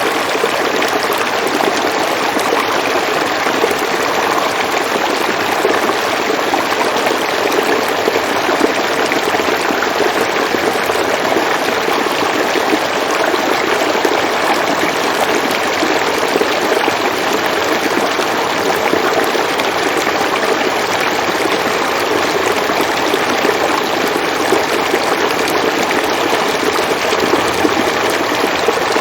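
River water flowing steadily: an even, unbroken rush with no other sounds.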